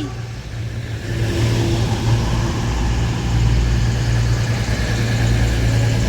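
Steady low diesel engine drone from trains: a Class 66 freight locomotive passing on the low-level line as a Cross Country Class 221 Voyager diesel multiple unit arrives.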